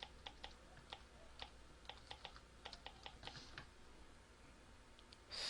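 Faint typing on a computer keyboard: a dozen or so irregular key clicks over about three and a half seconds, then a brief hiss right at the end.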